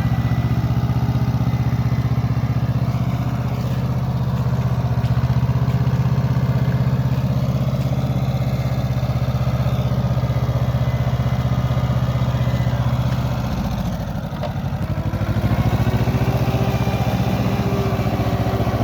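Tractor engine running steadily. About fourteen seconds in it dips briefly and changes pitch, then picks up again.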